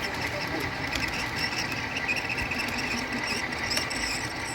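Model train running on the layout: a steady mechanical hum with a thin, steady high-pitched whine over it and a few faint clicks.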